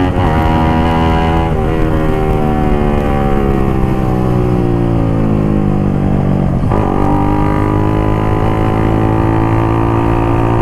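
Suzuki GSX-R150's single-cylinder engine running through a full-system aftermarket exhaust while riding. Its note falls steadily for several seconds as the bike eases off, then jumps up in pitch about seven seconds in and holds steady.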